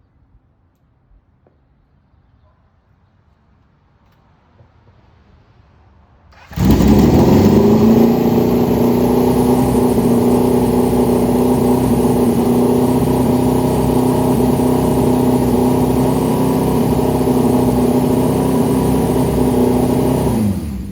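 Motorcycle engine starting about six seconds in, settling at once into a steady idle, then switched off just before the end, its note sinking as it dies.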